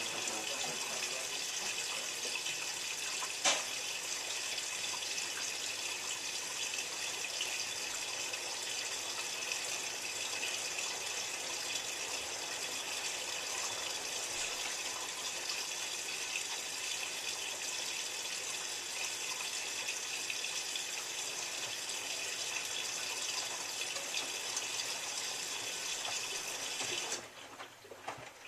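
Miele W3744 washing machine filling with water for its final rinse: a steady hiss of water rushing into the machine that cuts off suddenly near the end. A single click sounds a few seconds in.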